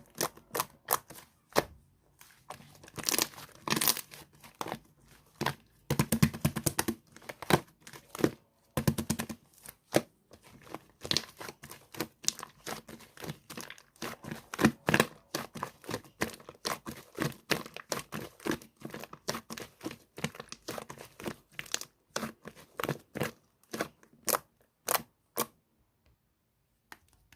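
Hands pressing, stretching and folding a soft white slime, making a dense, irregular run of sticky clicks, pops and crackles that stops about a second before the end.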